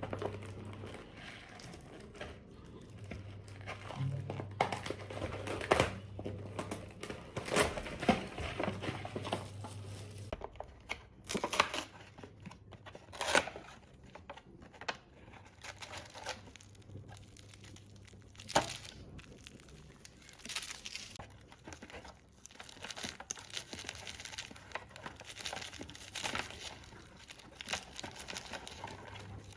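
Plastic and foil food packaging crinkling and tearing, with scattered clicks and taps, as a cup noodle is unwrapped and its lid and seasoning sachets are opened.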